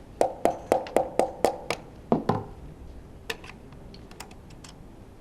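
Tapping on metal parts of a Honda V10 Formula One engine during teardown, as a connecting rod and piston are worked free. There are about seven quick ringing taps, roughly four a second, then two heavier knocks just after two seconds in, and a few faint clicks after that.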